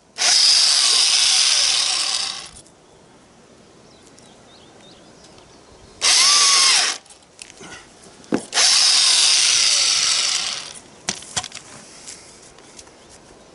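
Electric drill with a 30 mm bit boring a countersink into a wooden board, running in three bursts: about two seconds, then a shorter one, then about two seconds more. A few sharp knocks come between the last two.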